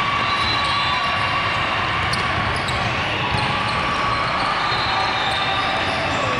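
Steady din of a large convention hall full of volleyball courts: balls being struck and bounced, with scattered sharp ball contacts over a constant background murmur.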